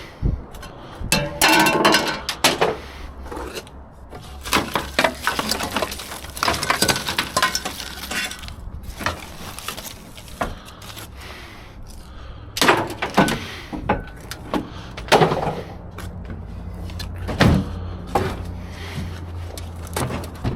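Scrap metal parts clanking and rattling as they are handled and shifted about in a dumpster, in irregular knocks and clinks, with a low steady hum underneath in the second half.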